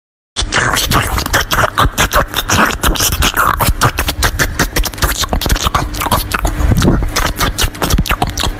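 Loud crunching and chewing bites: a dense, irregular run of crisp cracks that starts about a third of a second in and keeps going without pause.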